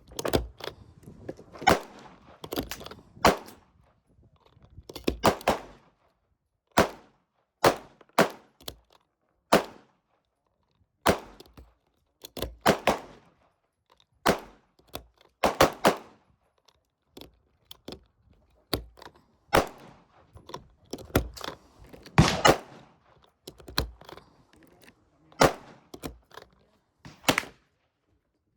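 A long series of sharp bangs, roughly one a second at uneven spacing, sometimes two in quick succession, each with a short ringing tail.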